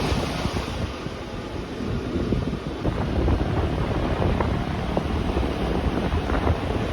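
Rhaetian Railway regional train running, a steady low rumble of wheels on rails with scattered small clicks and rattles.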